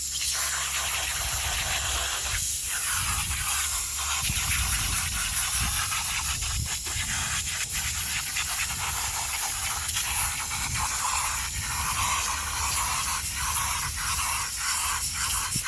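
Garden hose spraying water onto a dirt bike air filter, rinsing the cleaner out of it: a steady hiss of spray with small uneven spatters as the jet moves over the filter.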